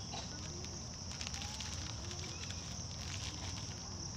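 Crickets chirring in a continuous high trill over a low rumbling background, with a few faint scattered clicks.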